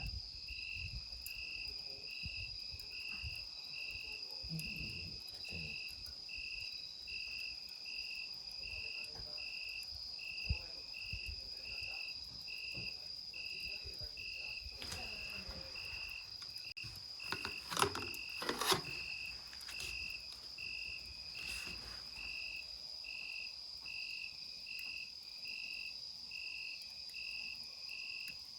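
Insects calling: one steady high continuous trill, with a second insect chirping about twice a second. A few sharp cracks or knocks come in a cluster about two-thirds of the way through.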